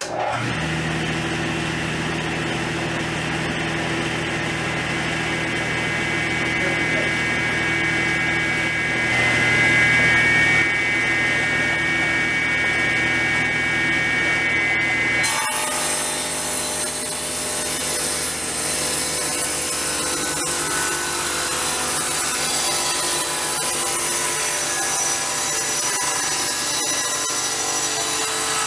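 Electric power saw running steadily while cutting wood; the sound changes abruptly about halfway through.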